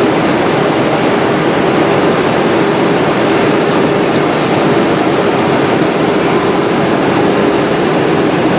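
Steady cabin noise of a jet airliner in flight: engine and rushing-air noise with a steady low hum.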